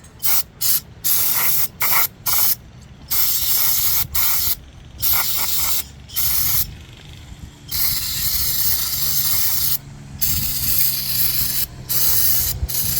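Aerosol spray can, most likely carburetor cleaner, sprayed in many short hissing bursts, then in longer blasts through the second half, to clean out a dirty lawnmower carburetor.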